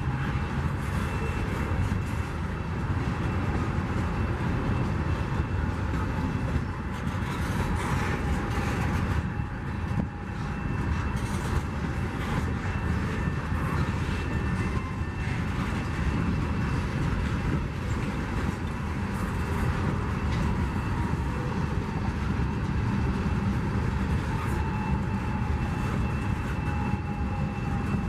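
Freight cars of a CSX freight train rolling past at speed: a steady wheel-on-rail rumble and clatter with scattered clacks, and a faint steady high-pitched tone over it.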